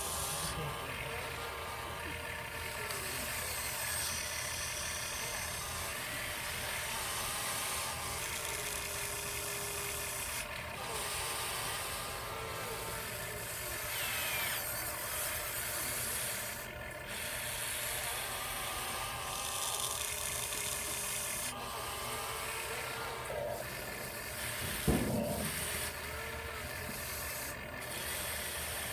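Small 1/14-scale RC trucks driving over dirt: electric motors and gearboxes whining on and off, with steady scraping and grinding from the wheels and chassis on the ground. A sharp knock comes near the end.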